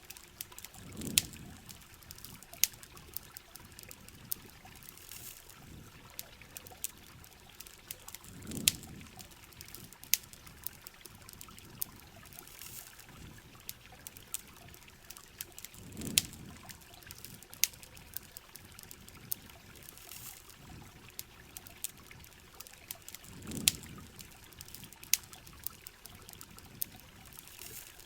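Layered ambience of steady rain and flowing water with sharp campfire crackles scattered throughout. A low surge of water sound swells and fades about every seven and a half seconds, four times.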